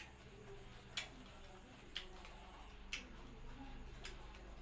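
Short, sharp clicks about once a second over a faint low hum.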